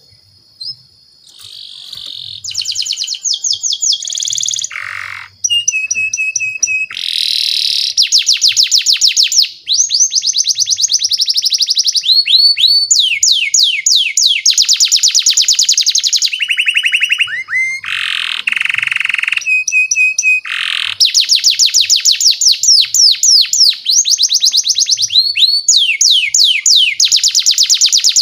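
Domestic canary singing a long unbroken song: fast trills of rapidly repeated notes that switch to a new phrase every second or two, some falling in pitch, with a few held whistled notes between them.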